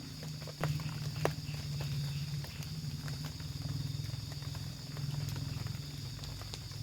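Night forest animal chorus: a steady high-pitched insect drone over a low, rapidly pulsing call. Scattered sharp clicks and pops sound over it, the loudest two about half a second and just over a second in.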